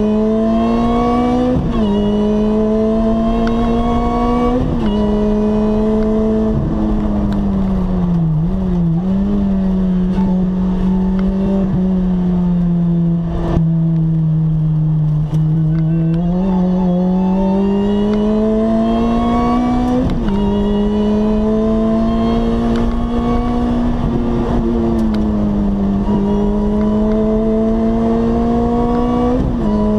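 Lotus Exige S engine heard from inside the cabin while driving, its note climbing steadily and dropping back at each gear change, several times. In the middle it falls away for a few seconds as the car slows, then climbs again.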